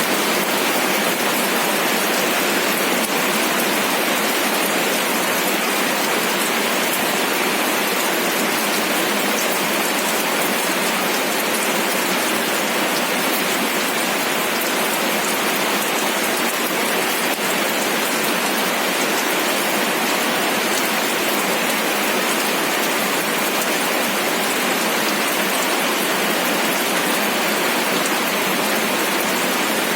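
Steady rain falling, an even hiss of rainfall with the patter of individual drops, unchanging throughout.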